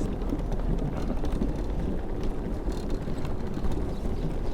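Wind buffeting the microphone of a moving bicycle: a steady low rumble, with a few light clicks and rattles.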